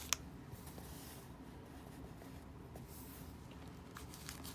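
Faint handling of sealed trading-card packs: a light click just after the start, then quiet rustling and small taps.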